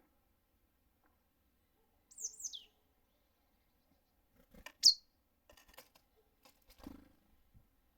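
Small songbirds calling at a feeder: two quick, high chirps falling in pitch about two seconds in, and a single louder call near the middle. Light clicks and knocks follow in the second half.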